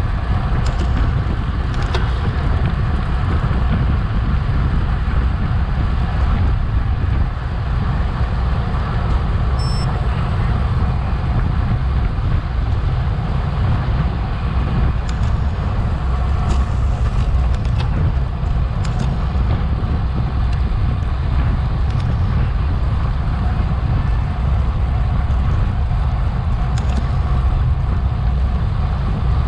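Wind buffeting the microphone of a bike-mounted action camera while riding in a race pack, a steady low rumble with tyre and road noise underneath and a few faint clicks.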